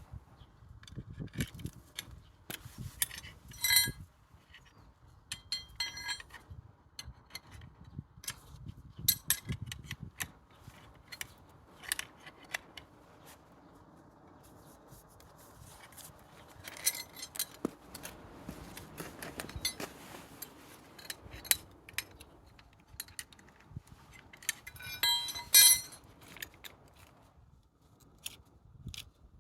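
Metal tools and parts being handled during a car tyre change: scattered clicks, knocks and scrapes, with bursts of ringing metallic clinks a few seconds in and again near the end.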